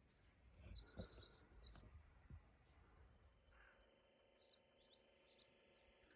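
Faint, scattered short chirps of small birds over a very quiet background, with a couple of soft knocks in the first two seconds; about halfway through a faint steady hum sets in.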